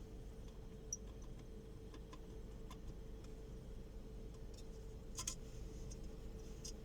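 Faint, scattered small ticks and creaks from a Skoda Octavia A5 centre armrest being worked, its plastic part rubbing against a metal part, with a sharper cluster of clicks about five seconds in. A faint steady hum runs underneath.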